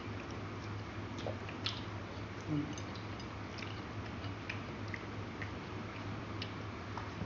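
Close-up eating sounds: chewing and small wet mouth clicks as rice and side dishes are eaten by hand, scattered irregularly over a steady low hum.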